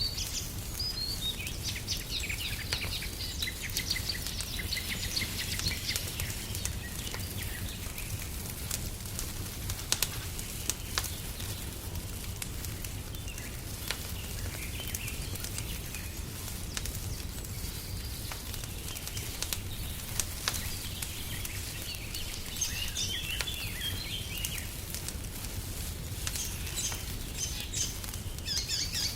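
Wood fire crackling, with frequent sharp pops over a steady low rumble, and small birds chirping in short runs near the start and again about three-quarters of the way through.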